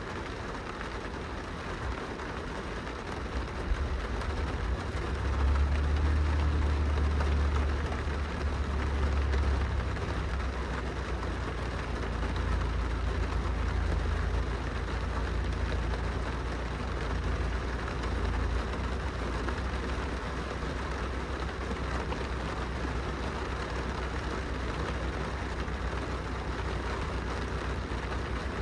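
Rain pattering steadily on window glass, with a deep low rumble that swells about four seconds in, is loudest for the next ten seconds, then eases but carries on underneath.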